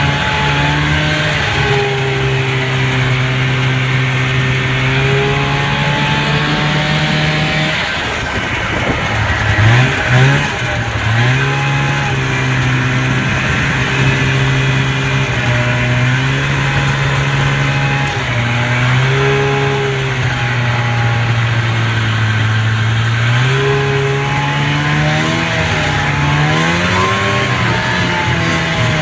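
Polaris Indy Lite snowmobile's two-stroke fan-cooled twin running under way on a trail ride. Its pitch holds steady for stretches, then drops and rises with the throttle, with a quick pair of revs about ten seconds in.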